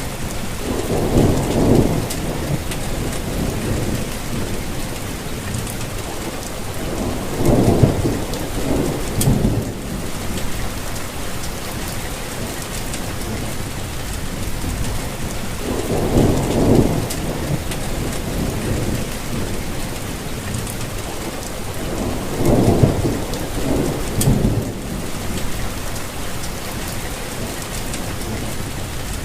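Steady rain falling, an even hiss of drops. A low rumble swells up and fades four times, each for a second or two.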